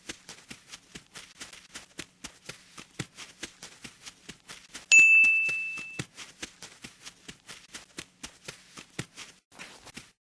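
Rapid, irregular clicking or tapping, several clicks a second, over a faint low hum. About five seconds in, a single loud bell-like ding rings out and fades over about a second.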